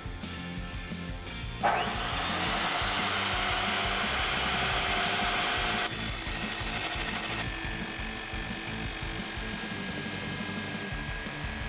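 Chop saw spinning up suddenly about two seconds in and cutting through a metal exhaust mid pipe: a loud, steady grinding whine with a ringing tone in it, which changes and turns higher and thinner about four seconds later as the cut goes on. Background music runs underneath.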